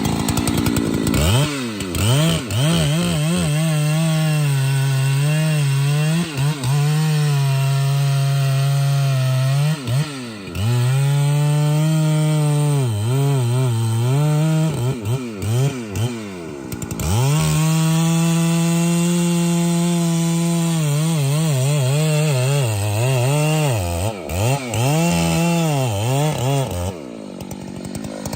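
Two-stroke chainsaw running at full throttle, cutting into a tree trunk. The engine pitch holds steady for several seconds at a time, dips and climbs back a few times, and falls away shortly before the end.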